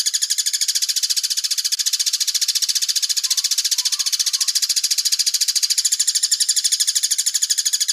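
A songbird's high trill of rapid, evenly repeated notes, held without a break. This is the fast 'tembak' style of song used in masteran recordings to train cage birds.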